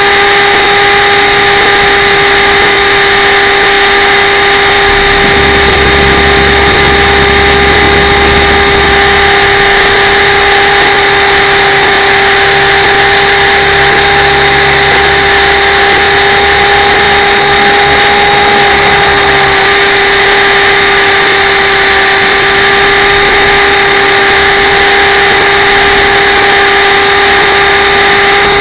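Radio-controlled camera helicopter's motor and rotors heard from its onboard camera: a loud, steady, high-pitched whine holding one pitch with its overtones, over a constant rushing noise.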